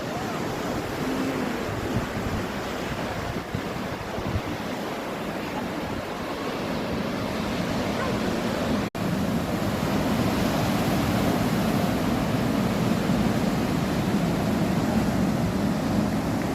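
Sea waves washing onto the beach, a steady rushing wash with wind buffeting the microphone. It cuts out for an instant about nine seconds in and comes back a little louder.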